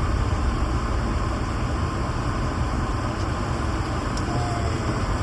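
Steady low rumble and rushing noise of a car driving, with a faint brief squeak about four seconds in.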